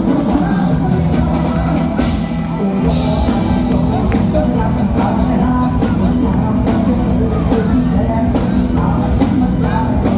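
Live Thai mor lam band music with a steady, fast drum beat.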